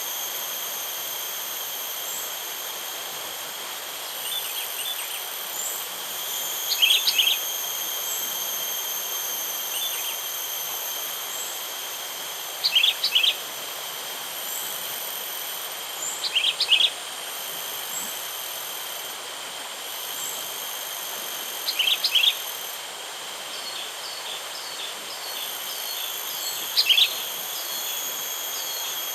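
Sooty-headed bulbul giving short, loud bursts of calls about every four to five seconds, five times in all, calling to draw in wild bulbuls. Underneath runs a steady high insect drone.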